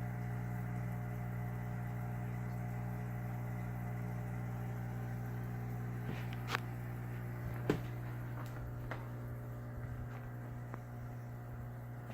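Steady low electrical hum of running aquarium equipment, with two sharp clicks about a second apart midway through.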